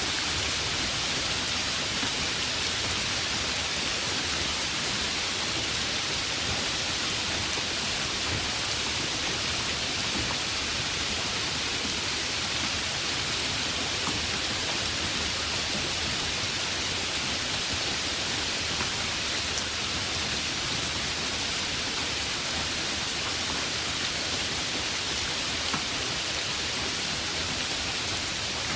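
Steady heavy rain: a dense, even hiss of rainfall with scattered individual drops.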